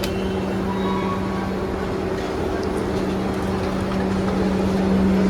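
A vehicle running with a steady low hum over a constant rushing noise.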